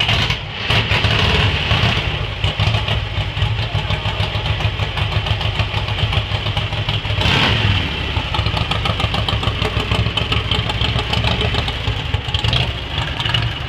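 1941 Harley-Davidson Knucklehead V-twin engine running just after its first start in years of storage, idling with a brief blip of the throttle about seven seconds in.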